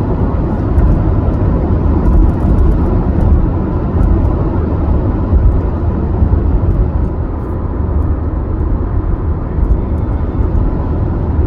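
Steady road noise of a moving car heard from inside the cabin: a constant low rumble of tyres and engine.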